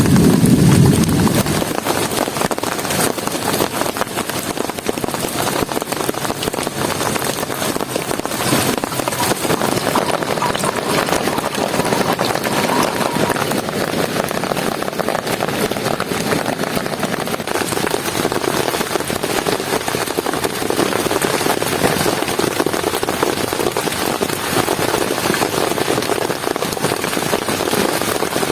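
Heavy rain falling steadily, with many close drop hits crackling on the shelter. A low rumble fades away in the first second or two.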